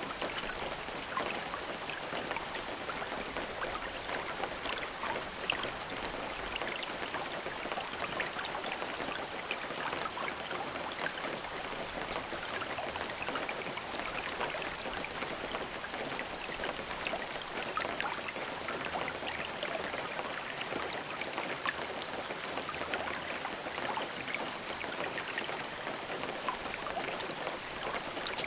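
Steady rain falling, a continuous hiss with many small individual drop impacts.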